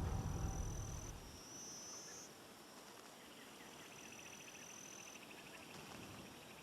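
Faint wildlife ambience: a few high, thin whistled notes, and from about halfway a fast pulsing trill, typical of birds and insects. A low rumble fades out in the first second or so.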